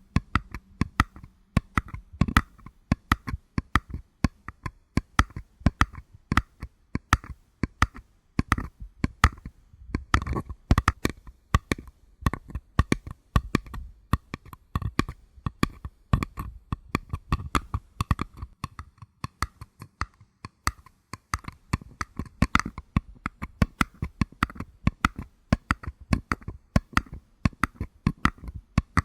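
Fingers tapping on paper cups in quick, irregular runs of light taps, several a second, with a slight hollow ring.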